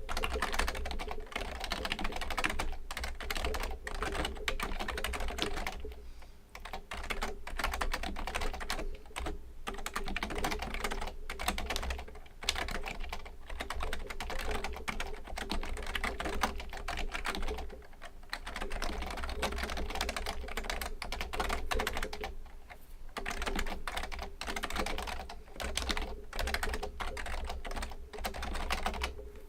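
Continuous fast typing on a Fujitsu Component Libertouch, a high-end membrane keyboard: a dense stream of key clicks broken by a few short pauses.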